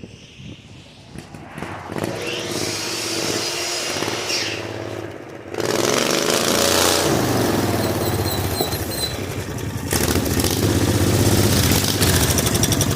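18 hp V-twin minibike engine, quiet at first, then revving up about two seconds in and more loudly with a rising pitch about six seconds in, staying loud near the end. It runs with a misfire that the owner is pretty sure comes from its coil packs.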